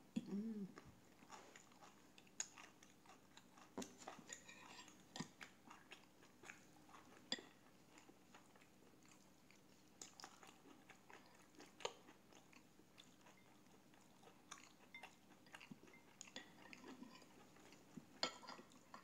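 Faint chewing of pancake, with scattered light clicks and taps of a metal fork and knife on a plate.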